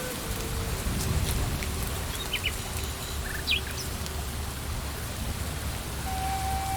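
Steady rain falling on leaves and ground in a forest, with a low rumble underneath. A few short bird chirps come in the middle.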